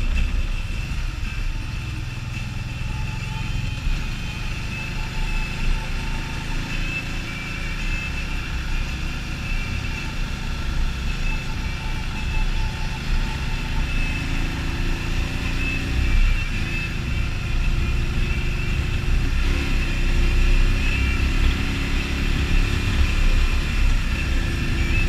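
Can-Am Spyder ST Limited's V-twin engine running on the move, under heavy wind rumble on the microphone. In the second half the engine note climbs and drops back several times, as it shifts up through the gears.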